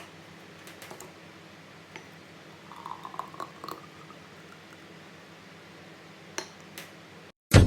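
A few faint clicks and taps over quiet room tone, with a short flurry of taps about three seconds in. Loud music starts right at the end.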